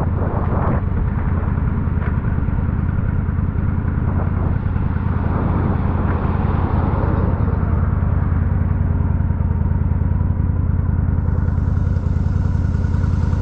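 Yamaha V-Star 1100's air-cooled V-twin engine running at a steady, even pitch, with a rushing noise in the first second that quickly dies away.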